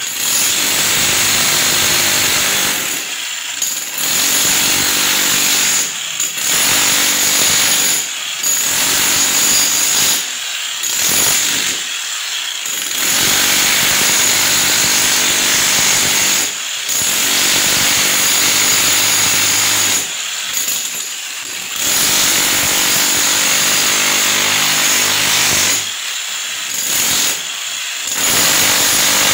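Handheld power tool running in bursts of a few seconds, stopping briefly about eight times, as it works on the building's walls or floor.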